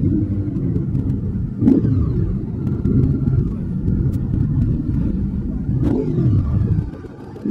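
Motorcycle engine running while the bike is ridden, a steady low rumble with two short sharp clicks, one about two seconds in and one near six seconds.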